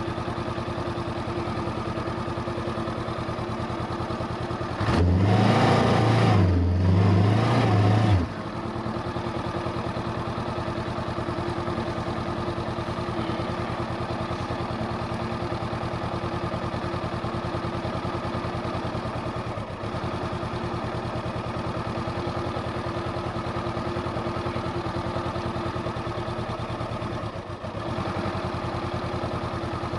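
A 2020 Honda CB500X's parallel-twin engine running at a steady speed, with a louder burst of revs in two quick pulses lasting about three seconds, about five seconds in.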